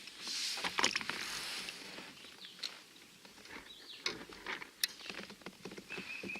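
Scattered clicks, knocks and rustling of gear being handled aboard a fishing kayak, busiest in the first two seconds. A short, thin, steady high tone sounds near the end.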